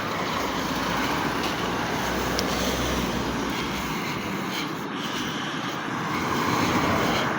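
Street traffic noise: a steady rush of passing cars' engines and tyres on the road, swelling near the end as a vehicle goes by.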